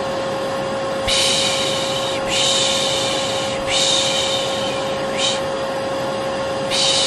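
A vacuum cleaner runs steadily with a constant whine, a white-noise lullaby for a baby. Over it a person shushes 'shh' again and again: four long shushes of about a second each and one short one.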